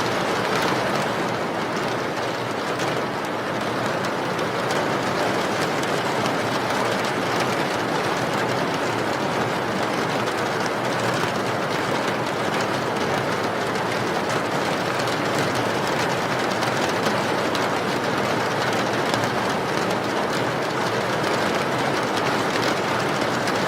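Steady rain, an even unbroken noise with no breaks or single drops standing out.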